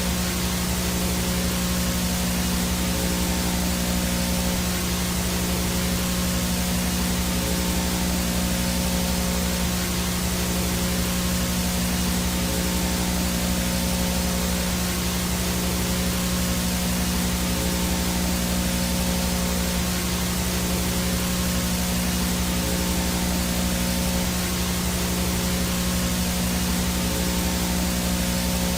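VHS no-signal static: a steady hiss with a low electrical buzz under it and a thin high whine on top, unchanging throughout.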